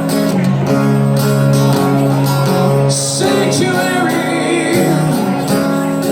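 Live band music: a guitar-led song with strummed chords and some singing.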